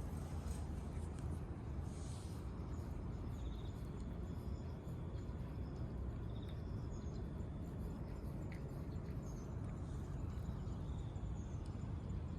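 Outdoor ambience: a steady low background rumble, with faint short high chirps and a brief trill now and then.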